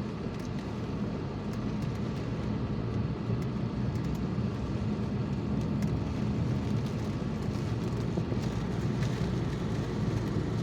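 Steady engine and road noise inside a moving car's cabin, with faint scattered ticks.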